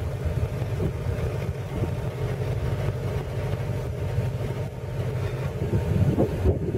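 BMW X5 engine idling steadily, with a short louder swell near the end.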